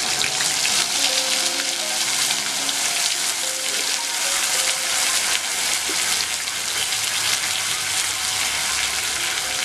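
Onion, ginger, garlic and dried red chilli paste sizzling in hot mustard oil in a kadai: a loud, steady frying hiss as the freshly added wet paste hits the oil.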